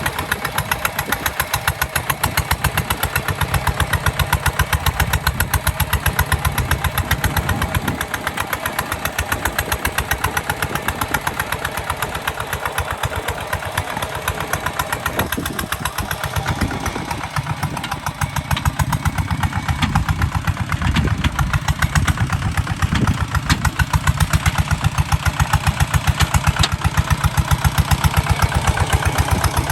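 Kubota ZT 155 DI single-cylinder diesel engine running steadily, its exhaust beat a fast, even train of pulses.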